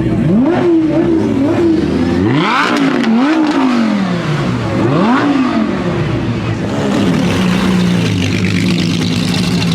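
High-performance car engine launching and accelerating hard, the note climbing sharply three times and dropping back between, as at gear changes. From about seven seconds in it settles into a steady, lower engine tone.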